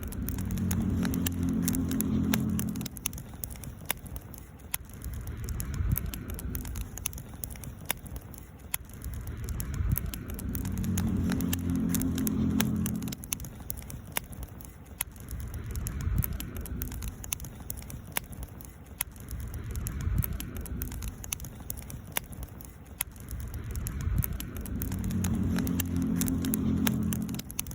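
Wood campfire crackling, with frequent sharp pops over a low rumble that swells and fades about every five seconds.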